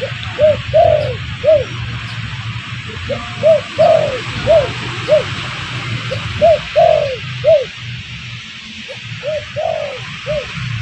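Spotted dove (derkuku) cooing: phrases of four or five short coos, one phrase every two to three seconds, over a steady low hum and hiss.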